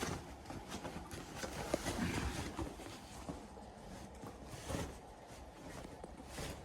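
Soft rustling and a few light knocks from a dog moving about and being handled.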